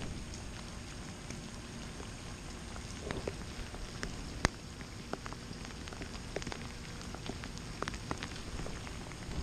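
Steady hurricane rain falling, an even hiss dotted with scattered sharp ticks, the loudest about four and a half seconds in.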